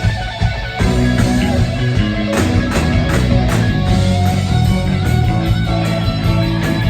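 Live rock band playing loud, electric guitars leading over bass and drums.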